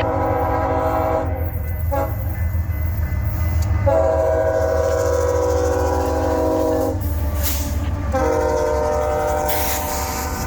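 BNSF freight locomotive's multi-chime air horn blowing a series of blasts (a long one, a short one, then two more long ones) over the steady low rumble of the passing train. The crew is sounding the horn freely for track workers and equipment on the line.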